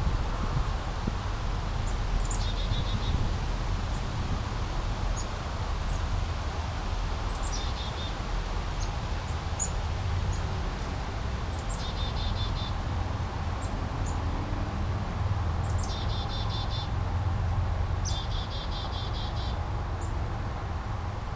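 Steady rushing and babbling of a small brook, with a songbird repeating a short song every few seconds: a high falling note followed by a quick trill.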